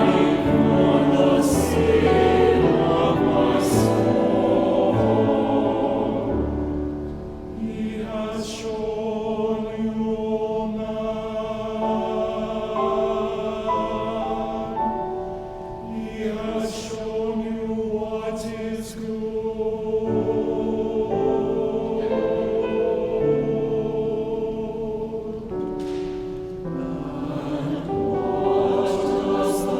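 Church choir singing with held, sustained chords, accompanied by low sustained notes from the pipe organ. The music swells and eases, dipping briefly around a third of the way in and again about halfway.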